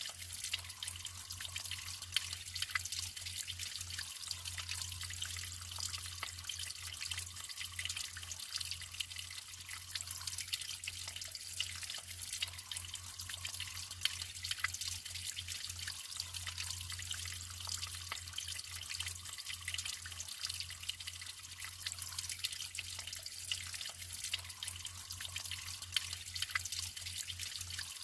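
Naturally flowing water trickling and dripping steadily, with many small quick drips and splashes, over a low steady hum.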